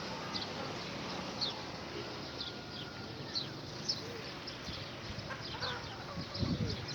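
Birds in a pigeon loft: many short, high chirps scattered throughout, with a lower call about six and a half seconds in.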